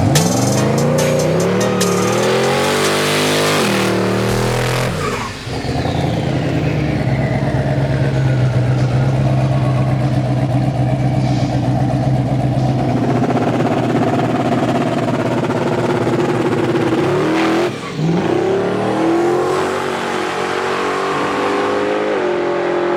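Drag-race car engines running at high revs, with the pitch climbing hard as they accelerate, holding steady, then climbing again near the end. Two brief sharp breaks in the sound come about a fifth and four-fifths of the way through.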